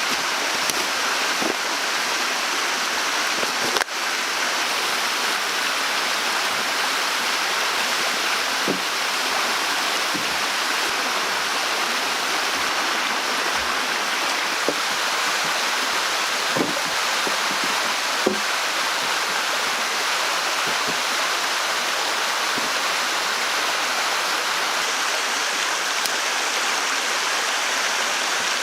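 Steady rushing of running water, with a few brief low gurgles scattered through it.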